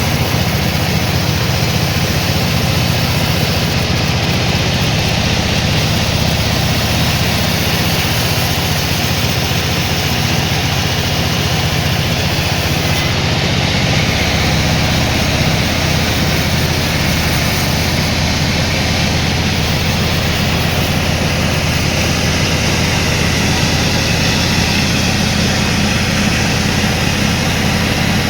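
Sawmill machinery running steadily: a constant low, engine-like hum with a broad noisy wash over it.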